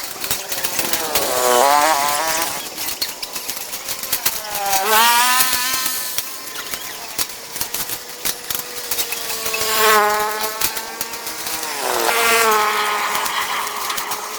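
Small engine of a handheld power tool revving up and down about three times, its pitch swooping, over a steady crackle of sharp clicks.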